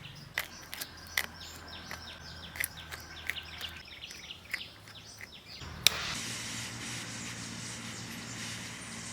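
Birds chirping, with sharp clicks among the chirps for about the first five seconds. A loud click comes near six seconds, and a steady hiss follows it.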